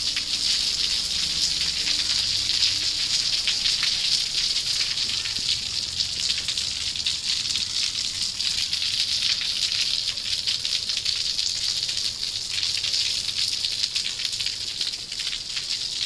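Steady rain falling, a dense even hiss made up of many small drop ticks.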